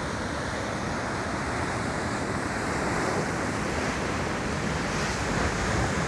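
Large storm surf breaking and rushing onto the beach, a steady roar of waves with wind on the microphone, growing slightly louder.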